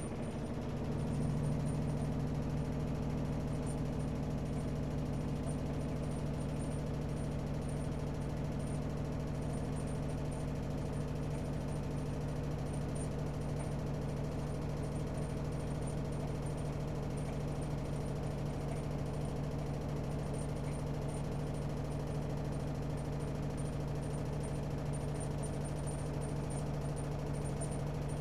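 AEG Öko-Lavamat 76910 washing machine running mid-cycle: a steady motor hum that comes up slightly about a second in and then holds level.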